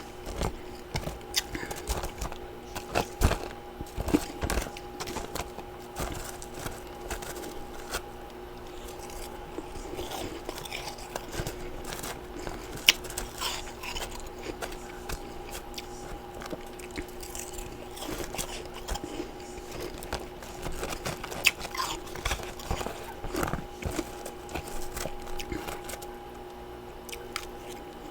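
Close-miked biting and chewing of freezer frost and ice chunks: irregular crunches throughout, with a steady hum underneath.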